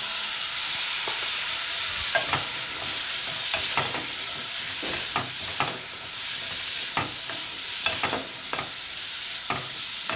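Diced liver and green bell pepper sizzling in a metal pot, stirred with a wooden spoon that scrapes and knocks against the pot at irregular moments.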